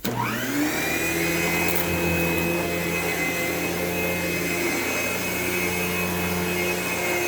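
Vacuum cleaner switched on: its motor whine rises to speed within about half a second, then it runs steadily at full speed.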